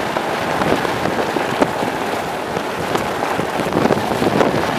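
Steady rush of storm wind and rain, a dense crackle of many small ticks.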